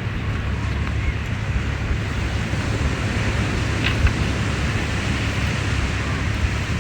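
Steady wash of waves at a beach, with wind rumbling on the microphone.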